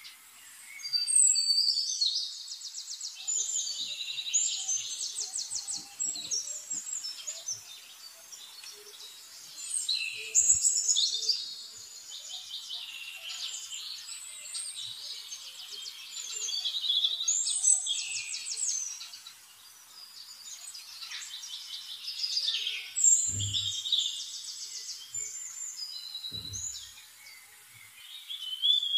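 Songbirds chirping and trilling in repeated bouts of rapid high notes, with two short low thumps in the last few seconds.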